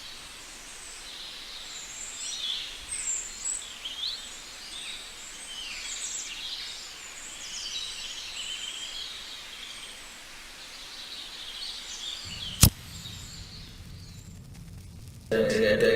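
Birds chirping and trilling over a steady outdoor hiss. One sharp click comes about three-quarters of the way through, and music starts just before the end.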